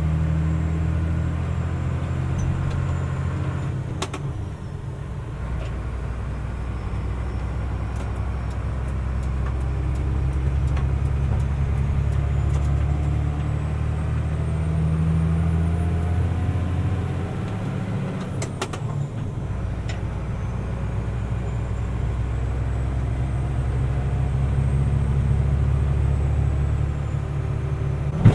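Mercedes-Benz Unimog U500's turbo-diesel engine pulling steadily under way, a low drone with a faint high turbo whistle above it. Twice, at about four and about eighteen seconds, a short click and a brief dip in the drone come as the whistle falls, then both build again.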